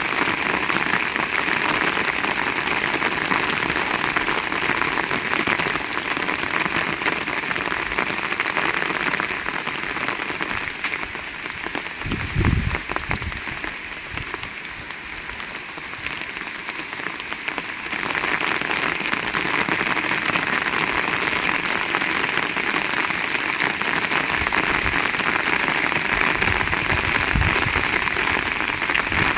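Heavy rain falling in a steady hiss. It eases a little about a third of the way in and comes back full about two-thirds through, with a single low thump near the middle.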